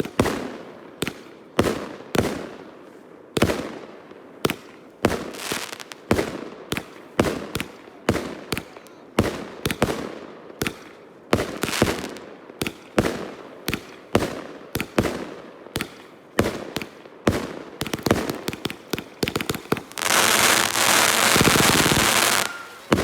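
Multi-shot fireworks firing one bang after another, about two a second, each with a short fading tail; the shots come faster near the end, then give way to about two and a half seconds of dense crackling that stops suddenly.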